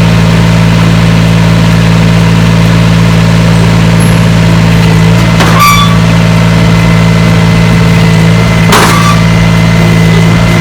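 Engine idling steadily and loud at close range, with two short sharp knocks about five and a half and nine seconds in.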